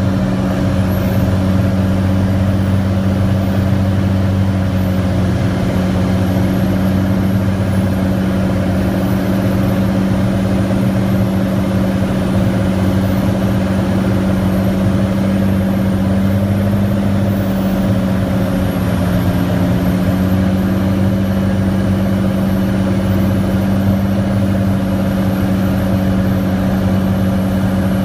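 Cirrus SR22T's turbocharged six-cylinder piston engine and propeller droning steadily on approach, its pitch dipping slightly partway through.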